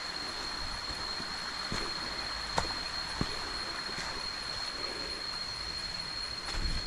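Jungle ambience: a steady rush of flowing creek water under a constant high-pitched insect drone, with two sharp snaps a little past the middle.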